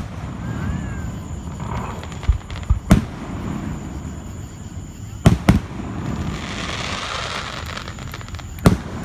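Fireworks going off: six or so sharp bangs, several in close pairs, with a hissing crackle a little after the middle.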